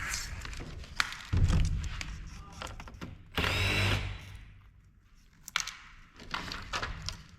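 Cordless power drill/driver running in two short bursts, the second with a steady whine, backing screws out of the monitor's metal housing. Scattered clicks and knocks of parts being handled come between the bursts.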